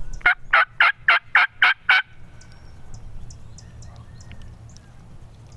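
Wild turkey calling loudly, a quick series of about eight notes at roughly four a second over the first two seconds, followed by faint small-bird chirps.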